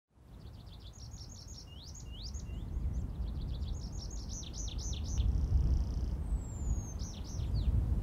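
Songbird singing in quick runs of sweeping, chirping notes, with a few rising whistles about two seconds in and a brief buzzy trill past the middle, over a steady low rumble that grows louder.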